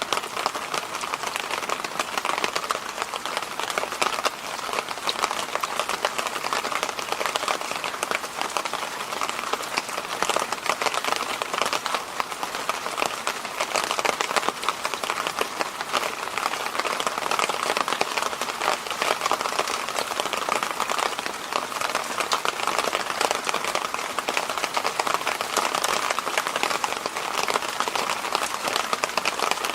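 Electric fan running steadily: an even rush of air with a slightly brighter band in the middle and a fine grainy texture, unchanging throughout.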